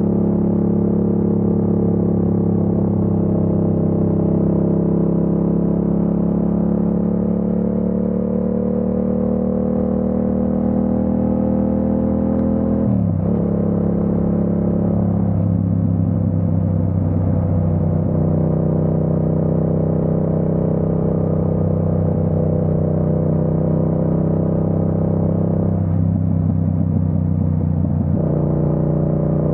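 Yamaha MT-07's parallel-twin engine heard from the rider's seat, pulling with its pitch climbing slowly, then dropping sharply about halfway through at a gear change before running on at a fairly even pitch.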